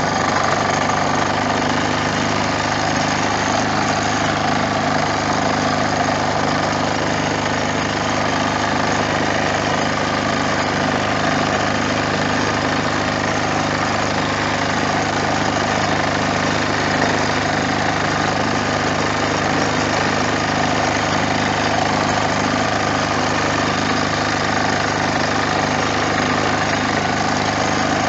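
Bertolini 402 diesel engine running at a steady speed, with an even, unchanging note.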